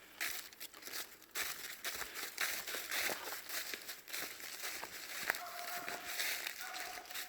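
Footsteps crunching and crackling through dry leaves and twigs on a steep trail, coming in an irregular, uneven rhythm.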